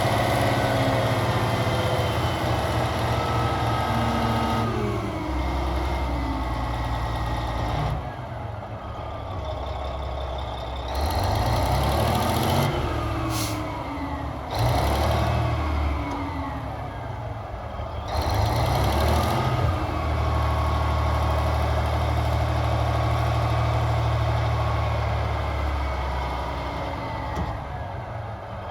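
Cat 773B rock truck's diesel engine running, revved up and down several times in the middle before settling back to a steady run. A short hiss comes near the middle.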